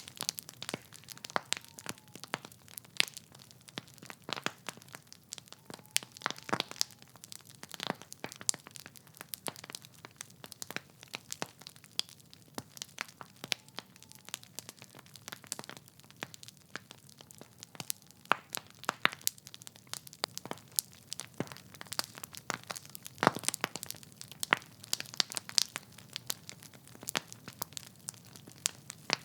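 Wood fire burning in a fireplace: logs crackling with irregular sharp pops and snaps, several a second, over a soft low hiss of the flames.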